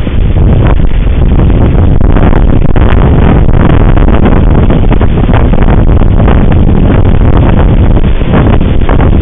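Strong wind buffeting the microphone: a loud, continuous low rumble with frequent short crackling gusts.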